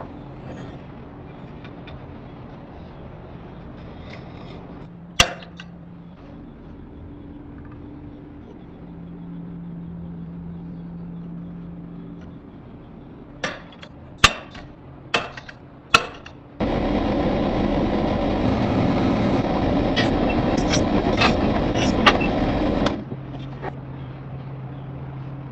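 Metalworking: single sharp hammer-on-steel strikes, then a quick run of about five more. After that comes about six seconds of loud, steady rushing noise with crackles in it, which starts and stops abruptly.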